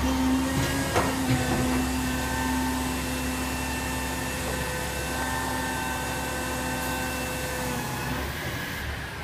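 Recycling garbage truck running with a steady hum, with a short knock about a second in.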